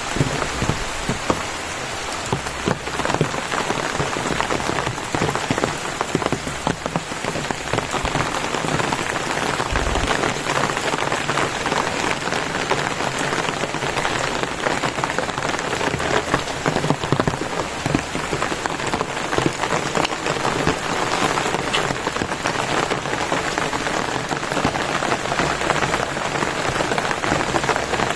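Steady, heavy rain falling, with many individual drops heard striking close by.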